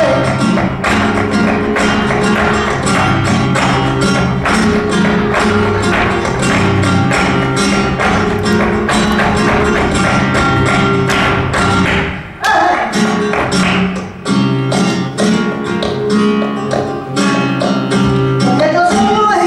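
Flamenco music with guitar and sharp percussive strikes running through it. The music drops back briefly about twelve seconds in before picking up again.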